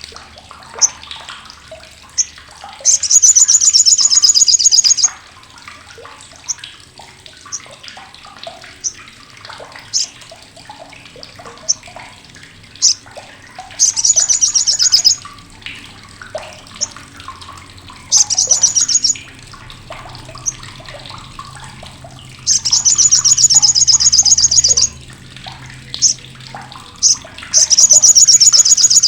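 Sogok ontong (sriganti) giving its crecetan, a loud, harsh, rapid rattling chatter, in five bursts of one to two and a half seconds each. Single short sharp chips come between the bursts.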